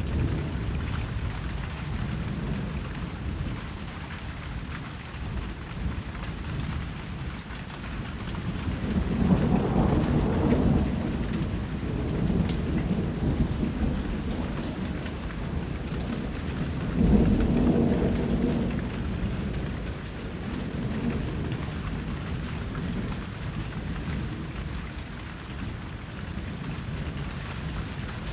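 Steady rain falling, with two low rolls of thunder, one about a third of the way in and another a little past the middle.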